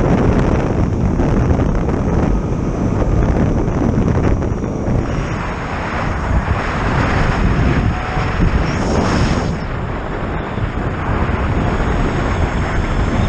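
Heavy wind rushing and buffeting over the microphone of a rider on a moving Zero FX electric motorcycle. The noise stays loud and swells and eases a little, with no engine note under it.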